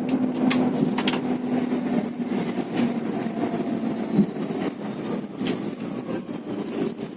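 Bus engine running with a steady drone that fades after about two and a half seconds, over road noise, with a few sharp clicks or rattles.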